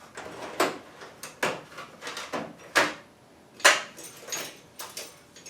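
Metal tools clattering and knocking in a toolbox drawer as it is rummaged through, a string of sharp clanks with rattling between them, the loudest about three and a half seconds in.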